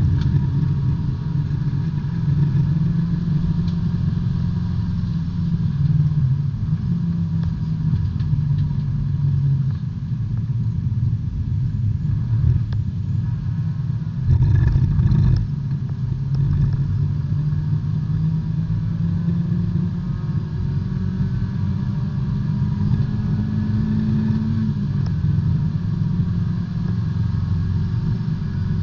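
Inside a B-Spec subcompact race car at racing speed: the four-cylinder engine runs hard under road and drivetrain noise, its note shifting pitch. There is a brief louder rumble about halfway through, and near the end the engine note climbs for several seconds, then drops.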